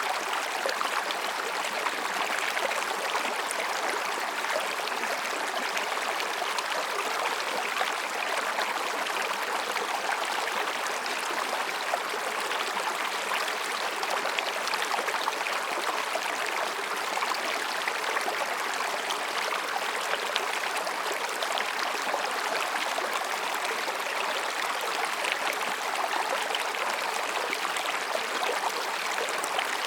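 Mountain stream babbling over and between rocks, a steady, even rush of water.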